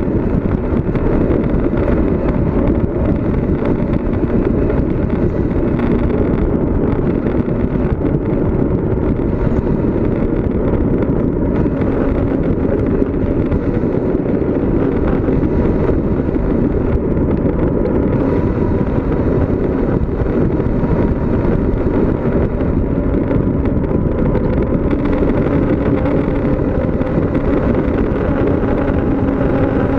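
Loud, steady rush of wind buffeting the microphone on a descending bicycle, with a faint steady hum of tones underneath.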